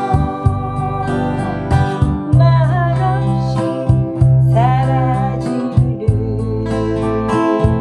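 A woman singing a slow Korean folk ballad with acoustic guitar accompaniment.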